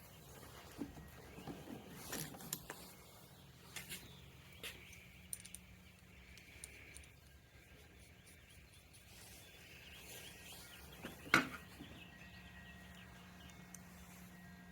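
Scattered light clicks and taps of small parts and tools being handled while a scooter's handlebar switch housing is taken apart, with one louder knock about eleven seconds in, over a faint steady hum.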